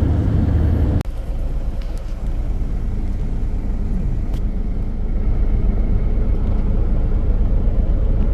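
Steady low rumble of a motor vehicle's engine and road noise, broken abruptly about a second in and then continuing.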